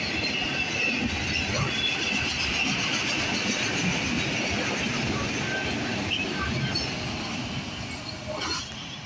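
Freight train of autorack cars rolling past: a steady rumble and clatter of steel wheels on the rails, with a faint high squeal over the first few seconds. The sound eases slightly near the end as the last cars go by.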